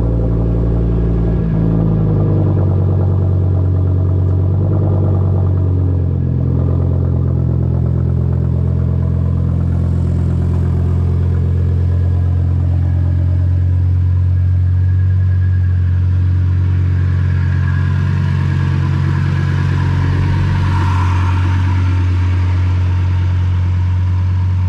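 2019 Audi RS3's turbocharged five-cylinder engine running at a steady idle through an AWE track exhaust, a deep even drone that settles slightly lower about a second and a half in.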